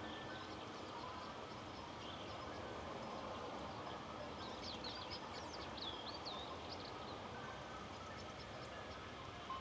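Rural outdoor ambience: a steady, faint hiss of wind, with a small bird's quick high chirps and trills about halfway through, over faint high insect ticking.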